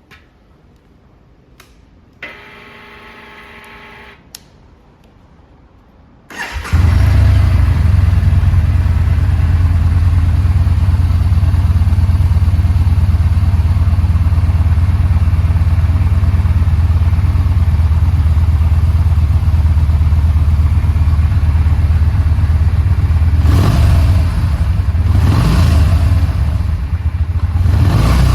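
A few clicks and a brief steady hum, then the Yamaha Bolt R-Spec's air-cooled V-twin is started about six seconds in and idles steadily with a deep, even pulse. Near the end the throttle is blipped three times.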